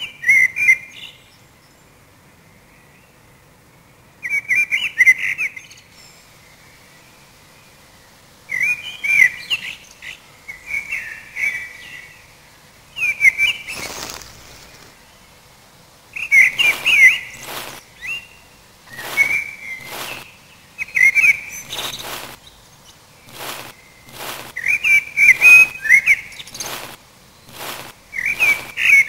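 Warbling, bird-like chirping whistles in short phrases every few seconds, with a faint steady whistle between them. From about halfway, sharp clicks come in irregularly among the chirps.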